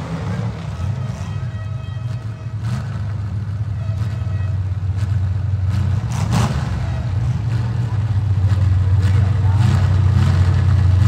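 Demolition derby car engines running and revving in the arena, growing louder toward the end.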